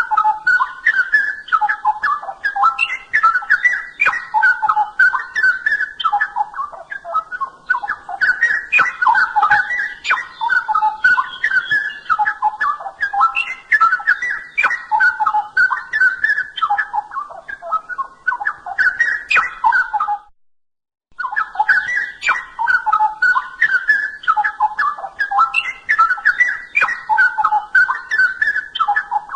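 Straw-headed bulbul (cucak rowo) singing continuously in loud, rich warbling phrases. The song stops abruptly for about a second roughly two-thirds of the way through, then resumes.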